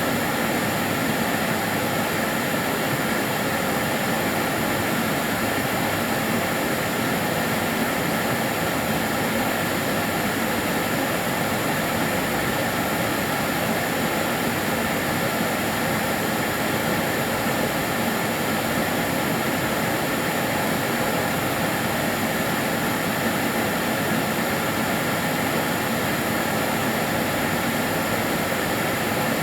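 Karcher DS 6 Premium water-filter vacuum cleaner running continuously: a steady, even rush of air with a thin high whine from the motor, unchanging throughout.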